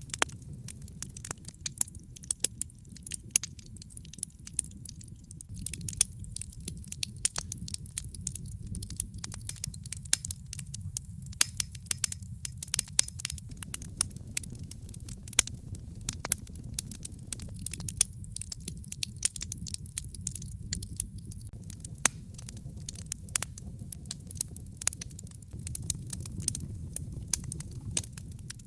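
Wood fire in a fireplace crackling: many irregular sharp pops and snaps, some louder than others, over a steady low rumble.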